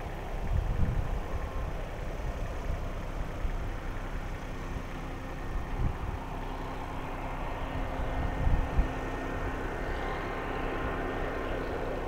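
Engine running steadily at idle, with a low hum, while wind buffets the microphone in gusts, strongest about half a second in and again about two-thirds of the way through.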